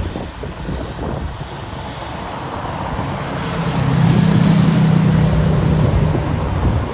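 A vehicle passing close by. The noise builds to a loud low hum in the second half, then falls away sharply near the end.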